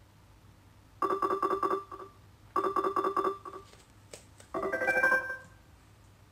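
Electronic prompt tones from a Harman Kardon Onyx Studio 7 Bluetooth speaker while it connects. There are two short runs of rapid repeated beeps, a click, then a short rising chime.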